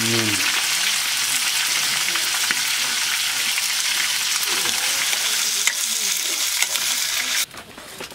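Meat frying in a metal wok, a steady hiss of sizzling fat and oil that stops abruptly about seven seconds in.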